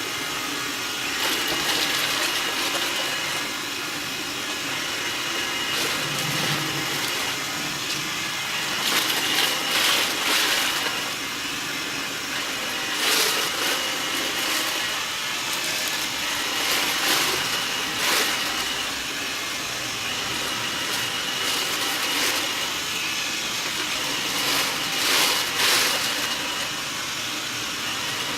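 A robot vacuum cleaner running with a steady whirring hum and a thin high whine, broken every few seconds by brief louder crackles.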